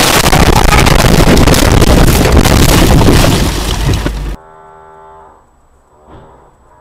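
Very loud, distorted noise overloading a dashcam microphone, cutting off abruptly about four seconds in. Faint tones follow.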